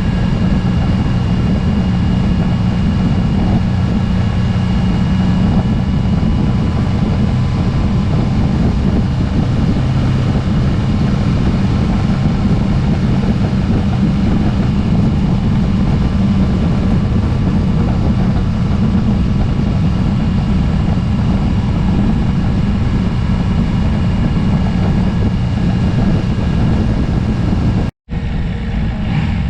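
Motorcycle on the move at a steady cruising speed: a constant engine drone under heavy wind rush on the camera microphone. The sound cuts out for an instant about a second before the end.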